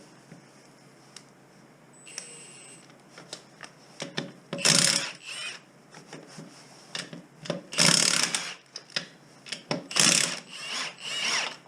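Impact wrench working the wheel nuts in four short bursts, after a quieter first few seconds.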